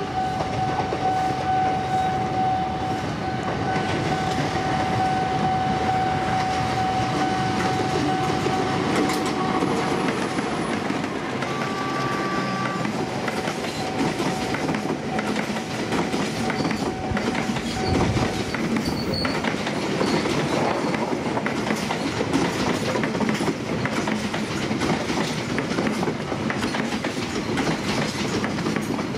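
Trains running through a station: a CC 204 diesel-electric locomotive hauling a passenger train, then a KRL electric commuter train passing at speed, wheels clattering over the rail joints throughout. A steady high tone runs through the first half and stops a little past halfway.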